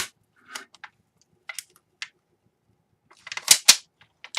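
Small clicks and taps of laptop parts being handled during disassembly, with two louder sharp clacks about three and a half seconds in.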